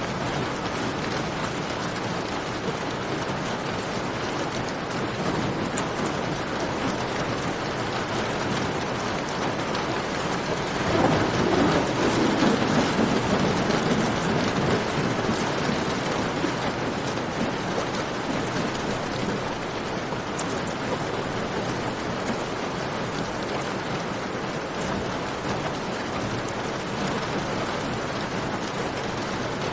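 Steady rain, with a low rumble of thunder swelling about eleven seconds in and fading over a few seconds. Faint clicks are scattered through it.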